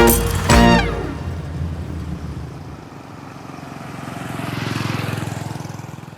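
A music track ends on a final chord in the first second. Then a small delivery motorbike engine runs, growing louder to a peak about five seconds in as it passes and fading as it rides away.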